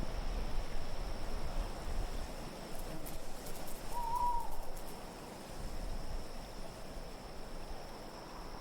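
An owl hooting once, a short note about four seconds in, over a steady wind haze.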